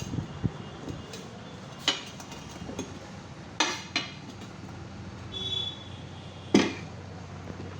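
Metal tools knocking and clanking at a motorcycle tyre repair, about five sharp separate knocks at uneven intervals, with a brief high squeak partway through.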